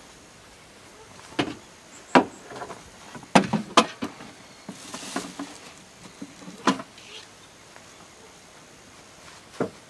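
A series of about six sharp knocks and clacks at uneven intervals, the loudest a pair close together a little before the middle, with a brief soft hiss about halfway through.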